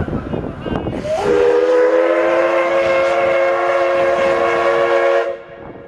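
Steam locomotive D51 498's whistle sounding one long blast of about four seconds, starting about a second in: a steady chord of several notes that cuts off sharply. It is the departure whistle.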